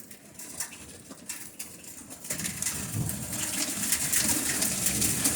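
Rolling thunder rumbling low under heavy rain and hail, which swell from a fairly quiet start to a loud steady hiss about two seconds in.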